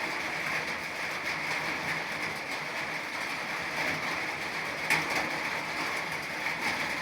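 Steady rain falling, an even continuous hiss, with one sharp tap about five seconds in.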